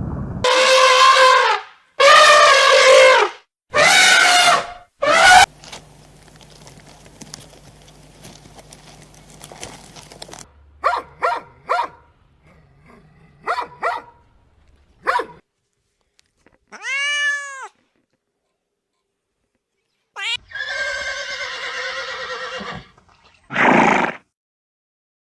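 A string of different animal calls in quick succession: three long calls at the start, a run of sharp clicks, a single call that rises and falls, then a harsher drawn-out call and a short loud one near the end.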